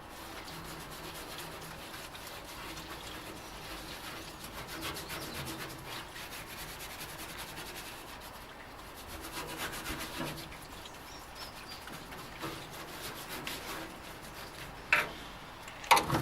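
A brush scrubbing the inside of a metal parts-washer tank with degreaser: a steady rasping rub of many quick strokes. A couple of sharp knocks come near the end.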